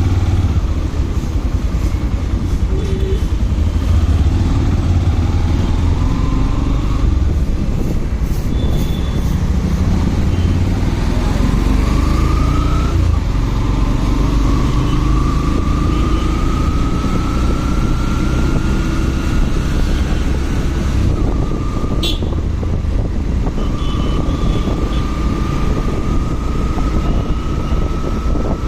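Motorcycle riding along, its engine running under heavy wind rumble on the microphone, with a faint whine that climbs slowly in pitch twice as the bike gathers speed. A single sharp click about two-thirds of the way through.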